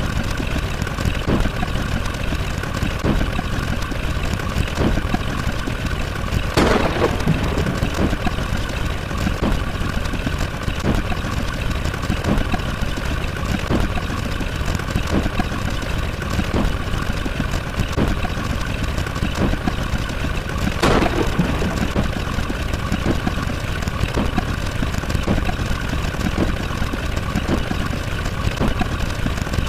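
Steady engine-like drone with a low rumble and several held tones, dotted with faint rapid ticks. Two brief whooshes stand out, about 7 seconds and 21 seconds in.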